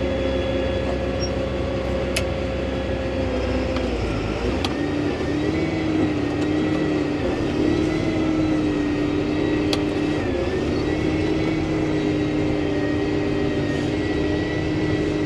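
John Deere 20 Series tractor running steadily, heard from inside the cab, with a constant high whine over the engine hum. About four seconds in, the low rumble eases and the pitch of the hum shifts lower.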